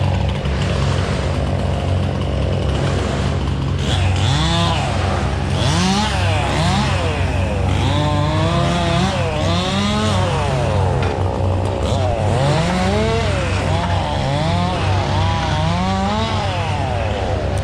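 Gas chainsaw cutting, its engine revving up and dropping back again and again, over a steady low engine drone.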